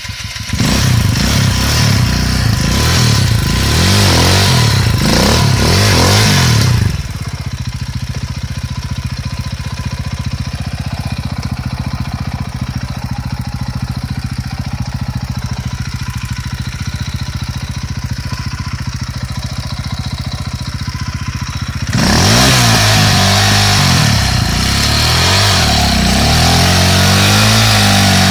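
KTM dirt bike engine being revved up and down, settling to a steady idle for about fifteen seconds in the middle, then revved again near the end.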